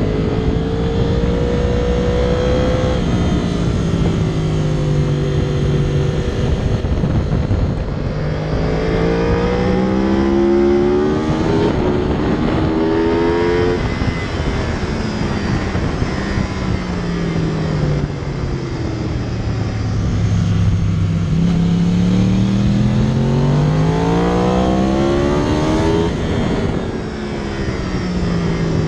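2014 Yamaha YZF-R1's crossplane inline-four engine at speed on a race track, its pitch climbing as the bike accelerates and dropping as it slows, several times over, with steady wind noise on the bike-mounted microphone.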